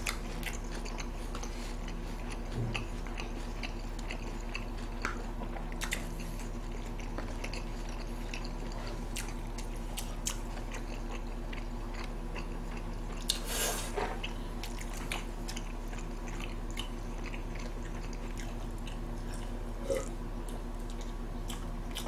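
People chewing and biting food, with many small scattered clicks and one brief louder noise about halfway through, over a steady low hum.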